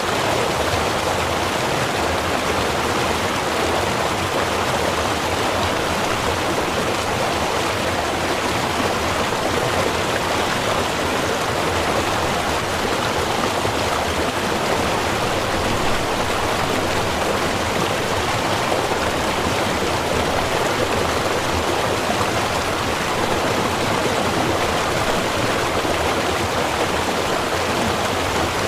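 Small river or stream, water running steadily over stones with a constant rushing babble.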